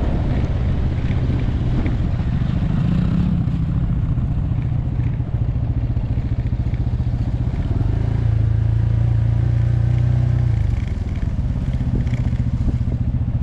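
Motorcycle engine running while riding. Its note grows louder and steadier about eight seconds in, then drops back about three seconds later.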